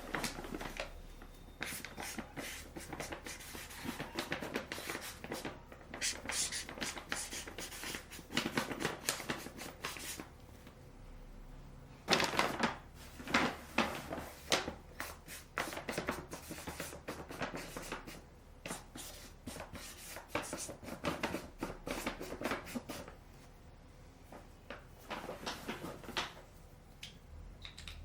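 Close-up handling sounds of household work: irregular scrapes, rustles and light knocks of objects being moved and set down, coming in quick clusters with short pauses between them.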